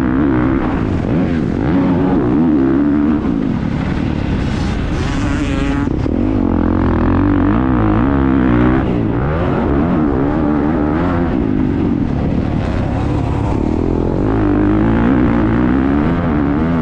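Motocross bike engine heard on board at racing speed, the revs rising and falling again and again as the throttle is opened and shut.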